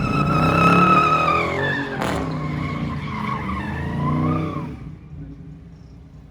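Car tyres squealing as a car drifts, over the running engine. The squeal wavers in pitch, with a sharp crack about two seconds in, and fades away after about four and a half seconds.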